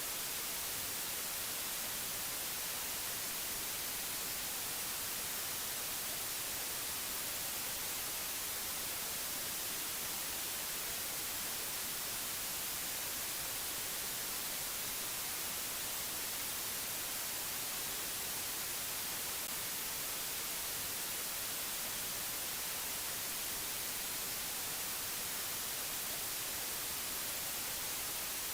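Steady, unchanging hiss of white noise, brightest in the high frequencies, with no other sound in it.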